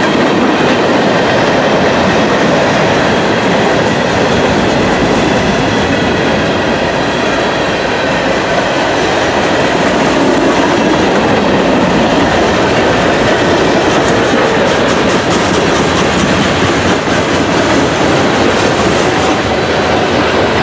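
Manifest freight train's cars rolling past: a steady rumble of steel wheels on rail, with a rhythmic clickety-clack of wheels over rail joints that grows clearer in the last few seconds.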